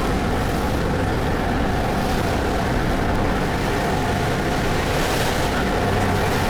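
Passenger ferry under way: a steady engine drone mixed with the rush of wind and water along the hull.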